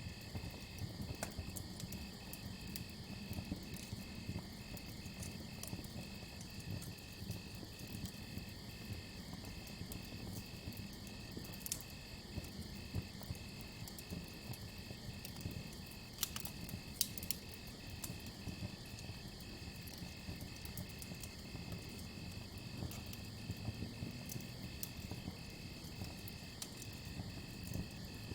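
Campfire crackling with scattered sharp pops, over crickets chirping in a steady rhythm a few times a second and a continuous higher insect trill.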